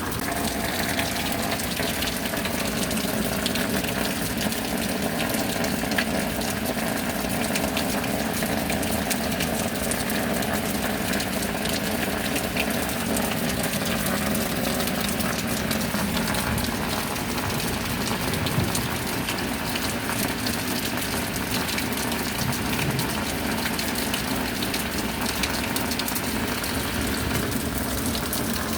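Steady rain: an even, dense hiss of falling water with fine drop ticks, running on without a break.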